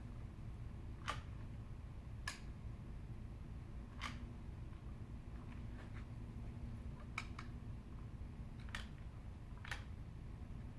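Scattered sharp clicks or taps, about seven in ten seconds, at uneven intervals and a couple in quick pairs, over a low steady hum.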